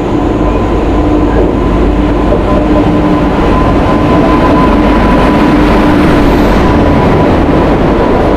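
Passenger train running: a loud, steady rumble with a thin, steady whine over it, growing a little louder.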